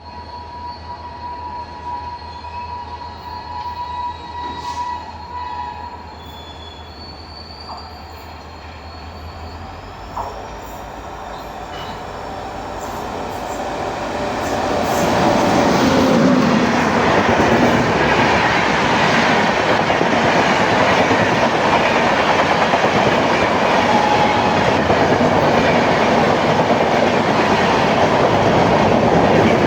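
Indian Railways WAP-7 electric locomotive's horn sounding steadily for the first several seconds. An express train then approaches, and about halfway through the locomotive and coaches pass close by at speed with a loud, steady rush of wheels on rails.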